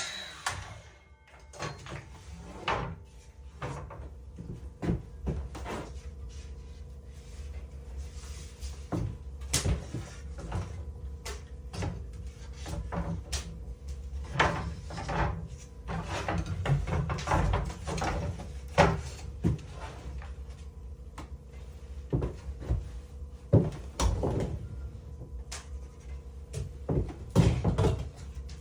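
Irregular wooden knocks and clunks of boards and tools being handled during wall framing inside a log cabin, spaced unevenly, over a low steady background rumble.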